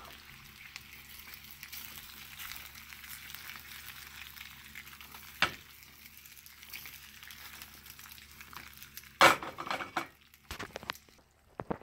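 Sliced potatoes frying in oil in a stainless steel skillet on a gas burner: a steady sizzling hiss. A sharp click comes about five seconds in and a loud knock about nine seconds in, after which the sizzle is quieter.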